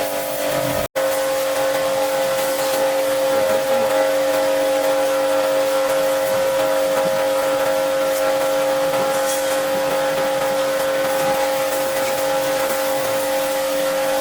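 An electric cleaning machine's motor running steadily with a high whine over a hiss. It cuts out for an instant a little under a second in, then carries on unchanged.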